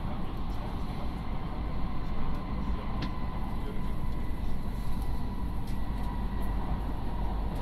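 Cabin noise inside a moving Hayabusa Shinkansen train as it nears its stop: a steady low rumble with a faint, even whine above it and a few light clicks.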